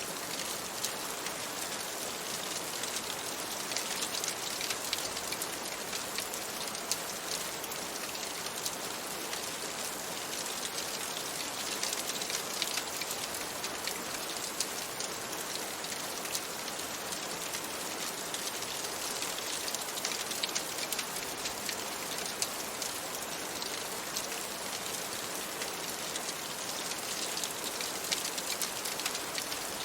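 Steady rain: an even hiss with many small, sharp ticks scattered through it.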